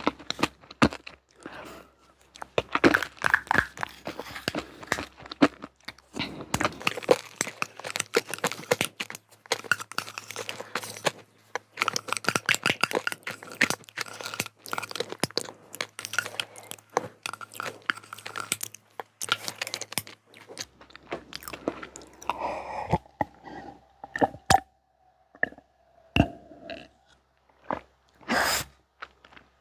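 Close-miked chewing and crunching of crunchy sweets: a dense run of quick crunches that thins out after about twenty seconds to a few scattered clicks.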